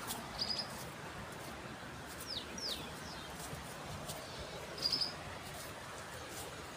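Birds calling: short high chirps about half a second in and again near five seconds, and a pair of quick falling notes a little past two seconds, over a steady hiss.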